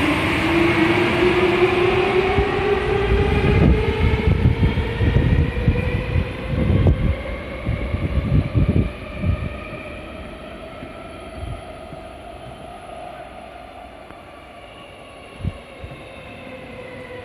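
Electric commuter train pulling out of the station, its traction motors whining higher and higher as it accelerates, with rumbling and clattering from the wheels. The sound fades away after about ten seconds as the train leaves.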